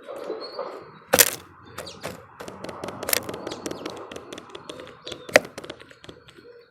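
Small birds pecking and scrabbling at a bird feeder: irregular sharp taps and knocks over a soft rustle, the loudest knocks about a second in, about three seconds in and just past five seconds.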